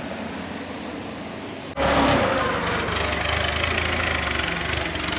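A steady low hum for just under two seconds, then an abrupt jump to a large diesel engine running steadily, presumably the Case 8250 combine's engine.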